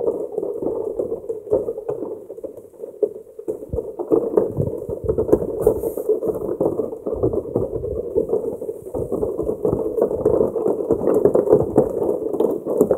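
Heavy rain falling, a dense, uneven patter of drops hitting close to the microphone.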